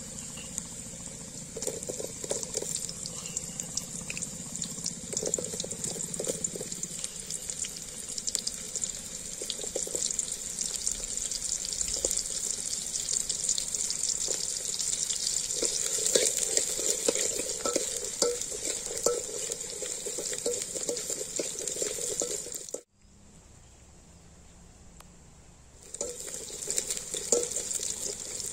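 Garlic and shallots sizzling in hot sesame oil in a metal pot, with a steel spoon stirring and clinking against the pot. The sizzle drops away for about three seconds near the end, then comes back.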